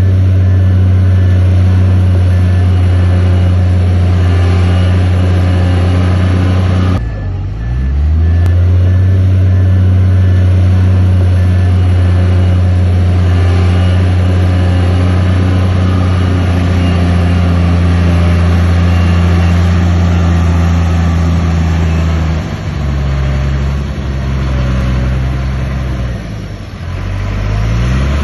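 Bulldozer's diesel engine working hard under load. It dips briefly about seven seconds in and again near the end, rising back in pitch each time, and eases to a lower speed for a few seconds before that.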